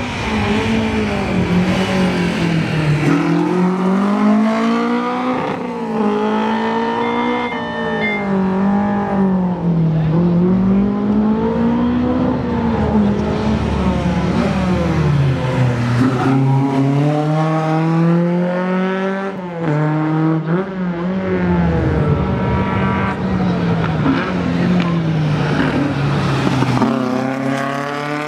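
Rally car engine at full throttle, its revs climbing and dropping again and again through gear changes and lifts off the throttle.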